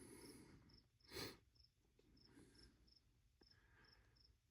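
Near silence with faint, high insect chirps repeating about twice a second, and a brief soft rustle about a second in.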